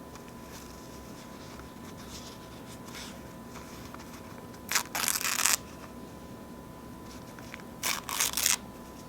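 Paper napkins being torn: two short rips, about five and eight seconds in, with faint rustling between them.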